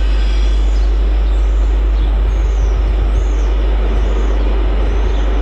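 Freight train hauled by two Class 90 electric locomotives passing, a steady loud rumble of wheels on rails.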